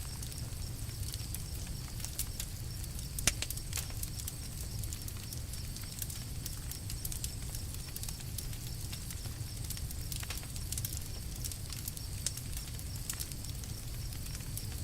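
Campfire crackling: scattered sharp pops and snaps from the burning wood over a steady low rumble, with one loud pop about three seconds in.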